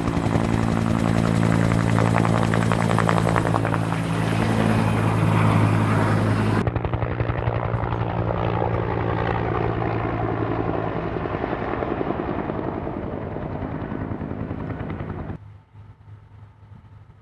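Helicopter flying close by, its rotor beating in a fast steady rhythm over a steady engine drone. The sound dulls suddenly about a third of the way in, then cuts off abruptly near the end, leaving a quiet background.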